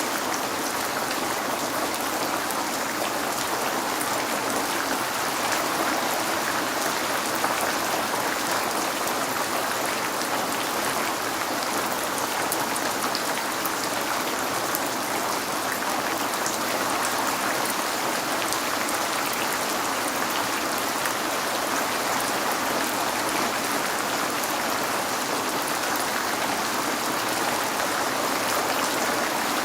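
Steady rain falling on a window: an even hiss of water with fine ticks of single drops striking, unchanging throughout.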